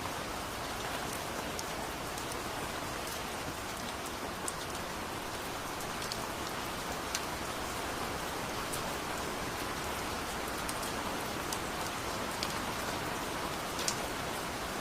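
Steady heavy rain falling, with scattered sharp drops ticking through the even hiss.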